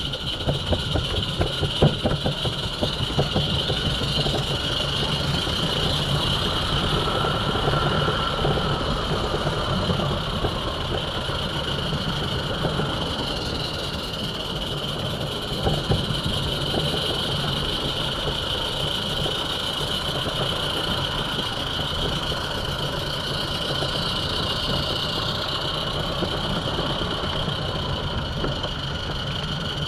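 A garden-scale model train running along its track: a steady mechanical running noise with a constant high whine, fast low rattling, and a few louder clicks and knocks, one about halfway through.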